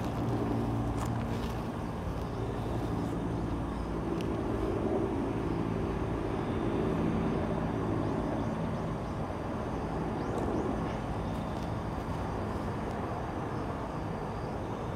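Steady rumble of distant road traffic, with faint engine hum that swells a little around the middle.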